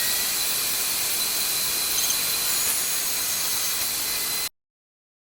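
Steady high-pitched hissing whine of a woodworking power tool running, which cuts off abruptly near the end.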